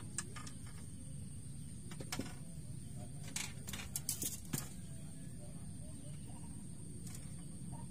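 A few short clicks and rustles as a small, just-landed fish is unhooked and handled by hand among the rods on a fishing raft, bunched together about three and a half to four and a half seconds in. Under them runs a steady low rumble and a thin steady high tone.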